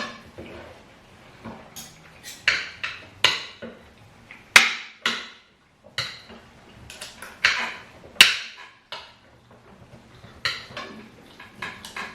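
Spoons clinking and scraping against plates while people eat a meal of rice and fish stew, in irregular sharp clinks about once a second.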